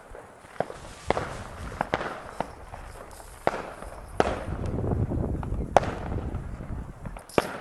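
Fireworks going off: a string of sharp bangs and pops at irregular intervals, about a dozen in all, with a low rumble between them around the middle.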